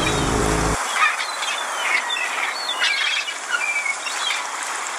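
Small birds chirping and twittering over a steady outdoor hiss. A low steady hum cuts off abruptly under a second in.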